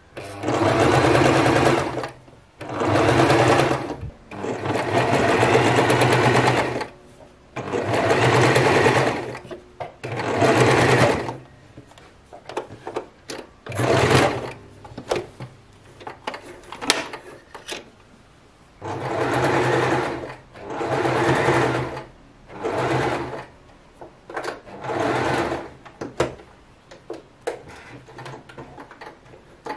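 Electric sewing machine stitching in a series of short runs, each one to three seconds long, stopping and starting about ten times with small clicks between runs.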